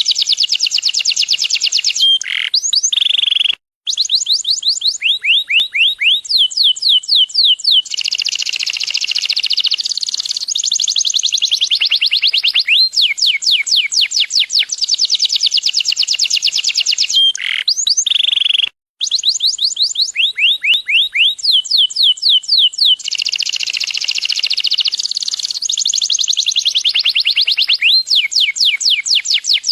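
Canary singing a long, loud song of very rapid trills, each built from quickly repeated sweeping notes, with a few held whistled tones. The song breaks off briefly about three and a half seconds in and again near nineteen seconds.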